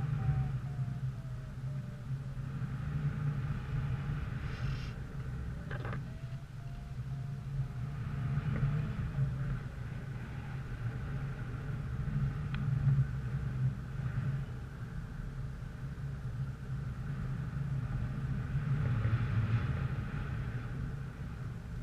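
A motor vehicle running steadily: a low engine and road rumble with a faint whine that drifts slowly down in pitch, and a few light knocks.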